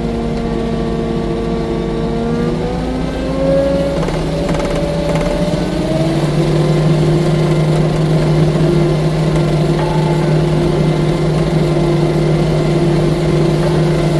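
Engine of a 6-ton tracked skid steer running, revving up about three seconds in and holding steady at the higher speed.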